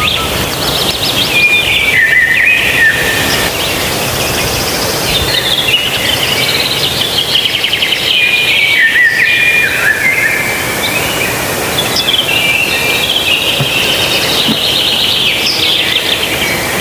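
Small birds chirping and singing in quick trills that step up and down in pitch and continue throughout, over a steady background hiss.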